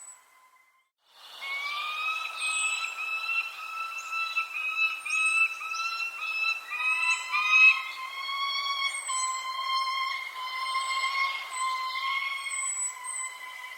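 Birds calling: short, high chirps scattered throughout, over a long run of tone-like calls that is broken into quick repeated notes at first and steadier from about seven seconds in. It starts after about a second of near silence.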